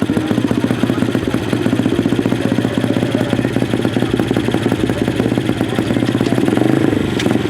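Dirt-bike engine running with a rapid, steady firing rhythm.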